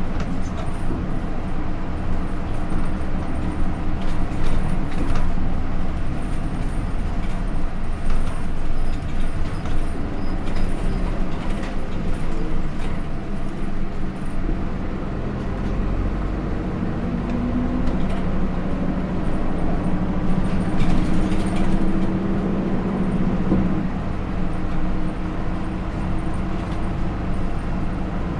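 Hino Rainbow II route bus under way, heard from inside the cabin: its Isuzu 4HK1-TCH four-cylinder turbodiesel runs with road and body noise. Past the middle the engine note climbs for several seconds, then drops back.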